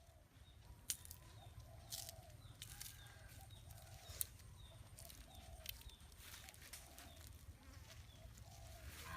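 Faint, soft clucking of a chicken, repeating about once or twice a second, with a few sharp clicks.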